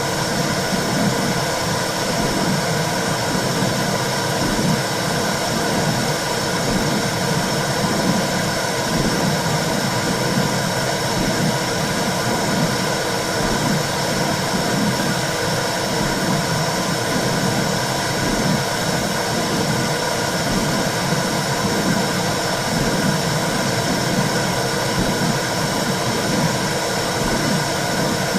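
Womb sound for soothing a baby: a steady whooshing hiss with a regular low pulse beating through it like a heartbeat.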